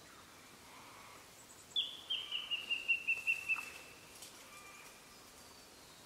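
A bird calling: a quick run of about ten short, clear notes, each slightly lower than the last, lasting under two seconds.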